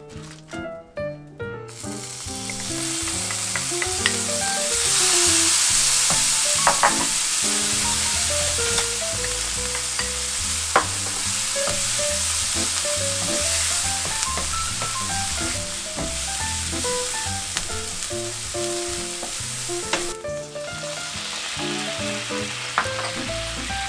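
Grated onion and garlic frying in a non-stick pan: a steady sizzle starting about two seconds in, with a wooden spatula stirring and now and then ticking against the pan. About twenty seconds in the sizzle dips and then goes on more softly, with mirin now in the pan.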